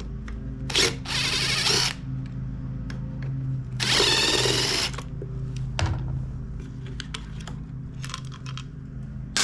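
Cordless power driver running in two bursts of about a second each, backing out the muffler screws on a small two-stroke blower engine, with light clicks and taps of tool and parts between.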